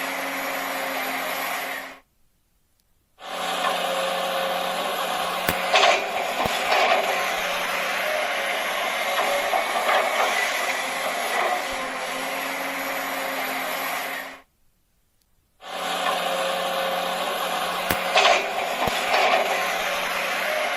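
A steady machine-like noise with a low hum and a few sharp ticks, playing as a repeating loop. It cuts out for about a second twice, about 12 seconds apart.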